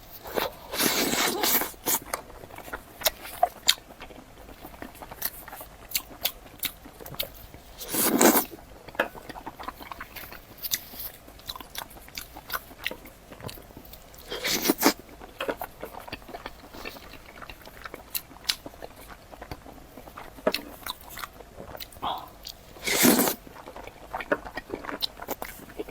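Close-miked eating of a grilled chicken-skin skewer: a few loud crunching bites, roughly every six to eight seconds, with steady wet chewing and small clicks in between.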